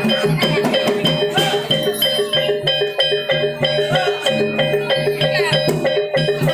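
Javanese gamelan music: struck metal-keyed instruments play a fast, even run of notes over a repeating lower pattern, with drums.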